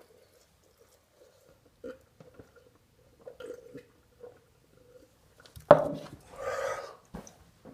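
A person chewing and swallowing a mouthful of food, with small wet mouth clicks and smacks, while forcing down the last hot dogs of an eating challenge. Near the end comes a sudden loud knock, then about a second of a throaty vocal sound from the eater.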